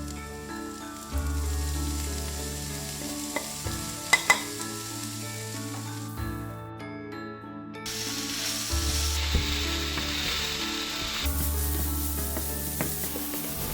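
Food stir-frying in hot oil in a pan: a steady sizzle with stirring, and a couple of sharp utensil clicks about four seconds in.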